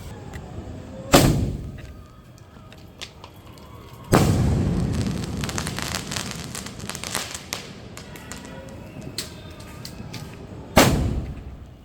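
A 4-inch aerial firework shell fired from a mortar: a sharp launch bang about a second in, then about three seconds later the shell bursts with a boom followed by several seconds of dense crackling from its silver crackling stars. Another sharp bang comes near the end.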